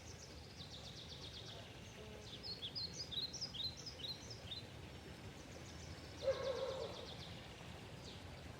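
Songbirds singing: quick high trills and scattered chirps over a faint steady outdoor background hum, with one short, lower, louder sound about six seconds in.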